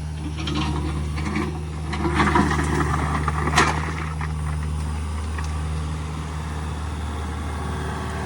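Diesel engine of a bucket-equipped earth-moving machine running steadily, with a stretch of clattering about two to four seconds in and one sharp knock near the middle of it.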